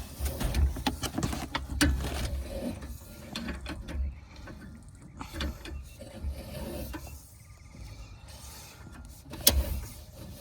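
A sewer inspection camera's push cable being worked on its reel: irregular rubbing, clicks and low knocks, quieter for a few seconds in the middle, with a sharper knock near the end.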